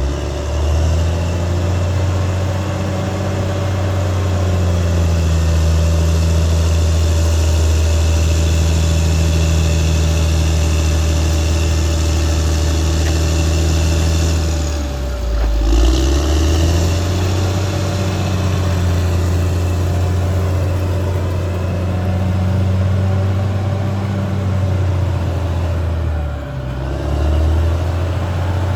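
Caterpillar D6R XL bulldozer's diesel engine running steadily under work. Its note drops briefly about halfway through and again near the end, then picks back up.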